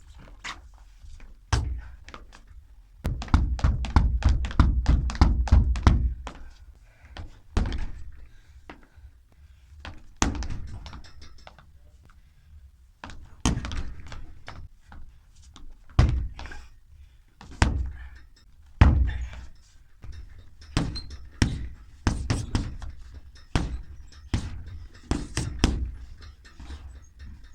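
Dull impact thuds of martial-arts strikes and kicks landing, with a fast flurry of about seven hits a second a few seconds in, then single hits and short combinations every second or so.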